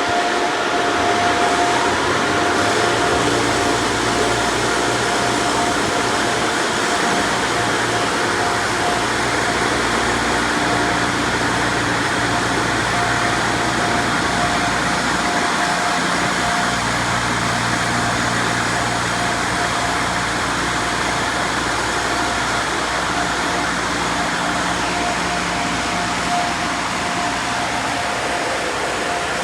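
PDQ LaserWash G5 touchless car wash machine running through its cycle, heard from inside the car: a loud, steady rush with a steady hum.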